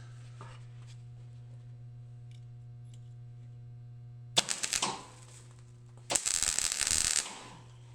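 Arc welder laying two short tack welds on a steel clutch rod: a brief crackle, then a denser crackle lasting about a second, over the welder's steady hum.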